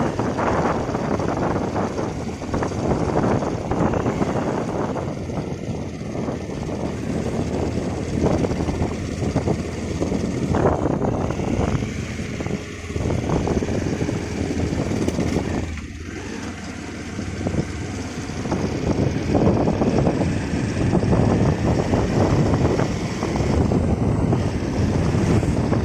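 Riding noise from a moving motorbike: wind rushing and buffeting over the microphone, rising and falling in strength, with the vehicle's running noise underneath.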